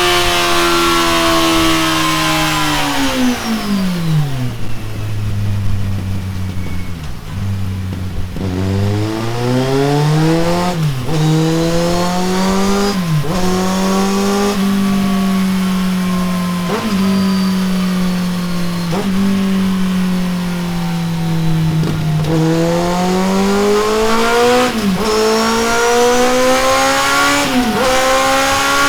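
Kawasaki Z800 inline-four running through a Delkevic tri-oval stainless steel exhaust on a dyno. The revs fall from high to low about four seconds in, then the engine pulls up again in several steps, each cut by a quick dip as a gear is changed, about six changes, finishing at high revs.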